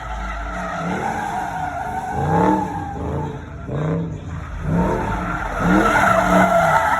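Car tyres squealing through a slide or donut, while the engine revs up and drops back again and again, about once a second. The squeal swells loudest twice, in the middle and near the end.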